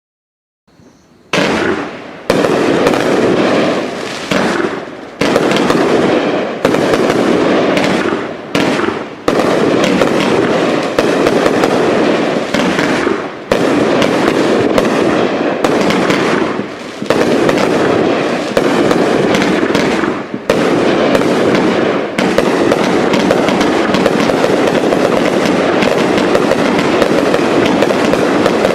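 Sunwing Captains three-piece finale box of consumer firework cakes firing. About a second in, a dense barrage of rapid shots and bursts begins, running together with only brief dips, and in the last several seconds it becomes one unbroken wall of shots.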